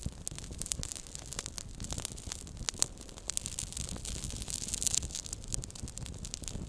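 Small wood fire crackling: many quick, irregular crackles and pops over a soft hiss, with one sharper pop about three seconds in.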